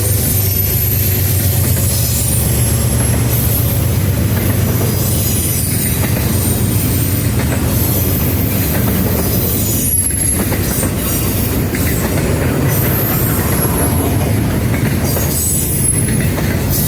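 Freight train cars rolling past, wheels clacking over rail joints with high-pitched wheel squeal coming and going. A low engine hum fades out in the first few seconds.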